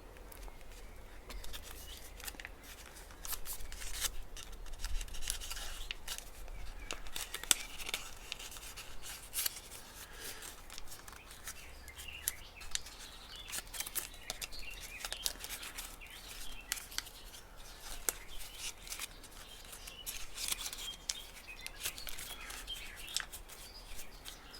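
Kami origami paper crinkling and rustling in the hands as it is pressed and shaped into a rounded fold, an irregular run of small crackles.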